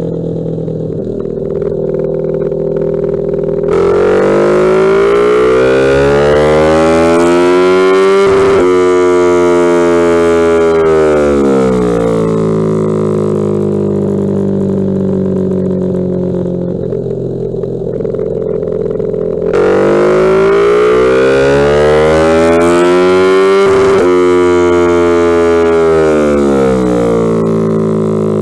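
Ducati Panigale 1299's 1285 cc Superquadro V-twin on a dyno, making two full-throttle pulls. Each time the pitch climbs steeply for several seconds, breaks off briefly near the top, then winds back down to a steady lower run. The first pull begins about four seconds in, the second a little past the middle.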